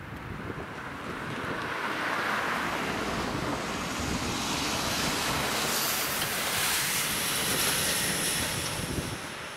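Train passing over the level crossing: a steady rush of wheels on rail that builds, is loudest for a few seconds past the middle with a high hiss, and eases off near the end.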